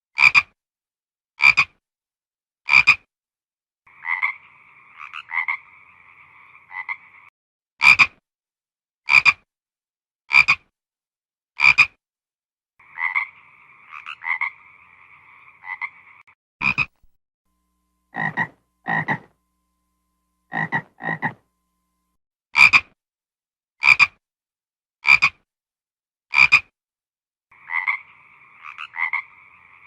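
Frog croaking: short single croaks about every second and a bit, broken three times by a raspy trill lasting about three seconds.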